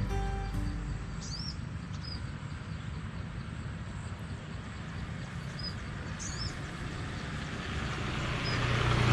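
Birds chirping a few times over steady outdoor background noise. Near the end a vehicle approaches and grows louder.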